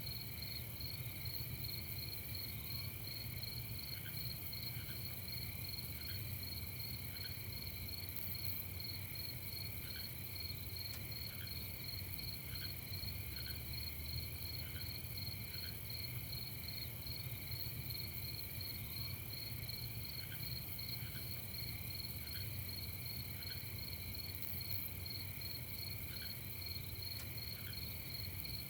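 Night chorus of crickets chirping continuously in a steady, evenly pulsing trill. Occasional short, lower chirps and a steady low rumble run underneath.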